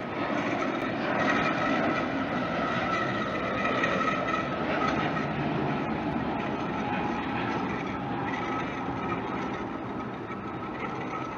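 Steady vehicle noise with a high, held whine, swelling about a second in and slowly easing off.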